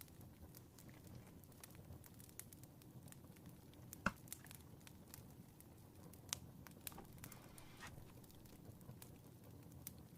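Fireplace fire crackling faintly: scattered small pops and one sharper crack about four seconds in, over a low steady rumble.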